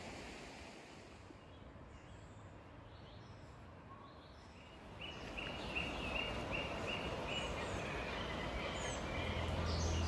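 Quiet outdoor ambience. About halfway through, a bird starts calling a short note over and over, about two to three times a second. Low steady music begins to fade in near the end.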